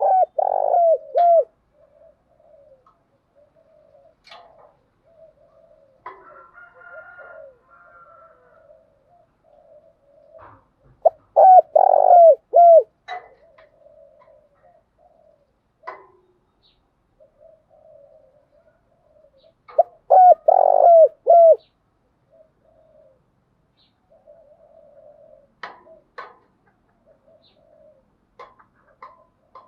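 Spotted dove cooing. A loud phrase of several quick, falling coo notes comes three times, about ten seconds apart: at the start, about 11 seconds in and about 20 seconds in. Between the phrases runs a soft, low, continuous cooing.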